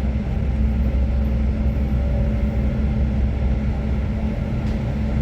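Moving passenger train heard from inside the carriage: a steady low rumble with a constant hum over it.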